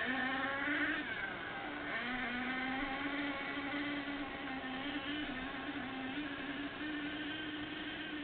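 Small nitro engine of an HPI Savage XL radio-controlled monster truck running at speed, its buzzing note rising and falling with the throttle.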